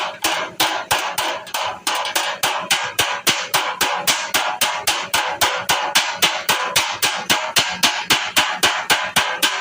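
Hammer beating on a Toyota's sheet-metal body side panel during dent repair, a steady run of sharp blows about four to five a second.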